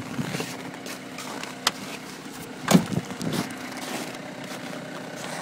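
Peugeot Partner 1.6 HDi four-cylinder diesel idling steadily, still warming up after a cold start at minus 19 °C. A sharp click comes about a third of the way in, and a short louder knock just past the middle.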